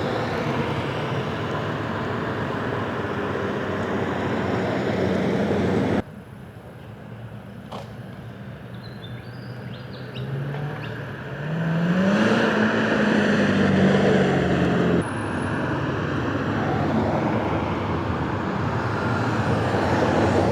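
Car engines running as cars drive in, with tyre and road noise. Midway, one engine rises in pitch as it accelerates, then holds steady. The sound changes abruptly twice where separate clips are joined.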